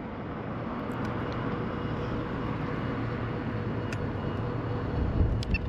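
Steady outdoor background noise with a low rumble swelling about five seconds in, and a few faint clicks.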